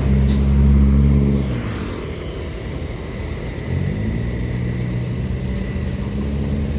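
Diesel engines of a convoy of Isuzu Giga trucks passing one after another: the first truck is loud for about a second and a half, then fades away. About four seconds in, the next truck's engine comes in with a short rise in pitch and then runs steady.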